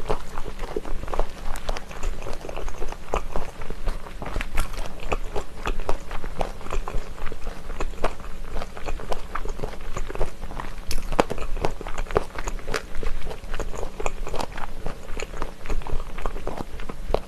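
Close-miked chewing of spicy chicken feet: a dense, irregular run of small crunches and wet clicks as the cartilage is bitten and chewed.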